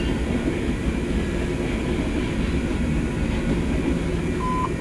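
BNSF freight train rolling past with a steady low rumble from its locomotives and cars.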